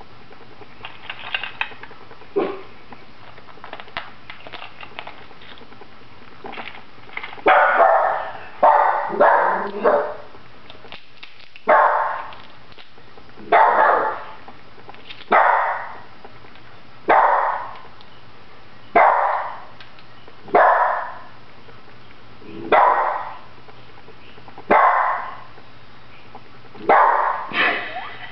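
A dog barking repeatedly, starting about seven seconds in with a quick run of barks, then single barks every one and a half to two seconds. Before the barking, faint crackling clicks of crawfish shells being cracked and peeled by hand.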